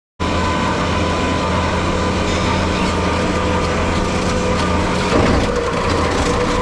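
Skid steer running steadily with its brush cutter attachment, a loud, even low hum over a wide noise that cuts in suddenly just after the start, with a brief louder moment about five seconds in.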